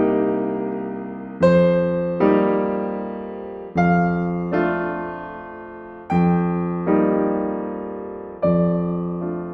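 Slow, gentle solo piano music: soft chords struck in a lilting pattern every second or so, each left to ring and fade.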